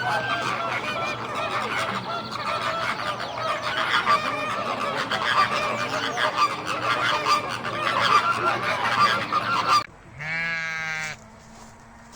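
A flock of geese honking, many overlapping calls at once, which cuts off abruptly near the end. Then comes a single wavering bleat.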